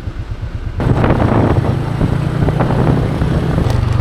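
Motor scooter engine running while riding, with wind buffeting the microphone; the engine note steps up and the wind noise grows about a second in, and the engine shifts again near the end.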